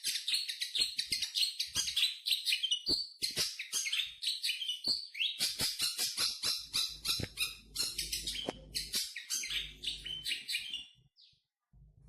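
Long-tailed shrike (cendet) singing a fast, unbroken run of quick, high chattering notes that stops about a second before the end.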